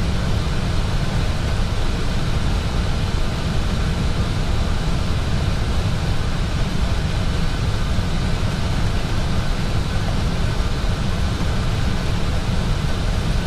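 Steady rushing cockpit noise of an Airbus A320 in flight on approach, an even roar heaviest in the low end.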